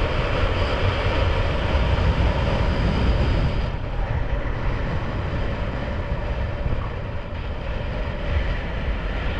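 Steady rumble of a motorcycle under way, mostly wind rushing over the microphone, with the engine underneath. The higher hiss drops off about four seconds in.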